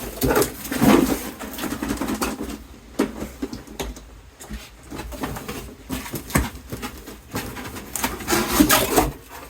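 Handling noises: irregular knocks, clicks and rubbing of objects being moved about, loudest about a second in and again around eight to nine seconds in.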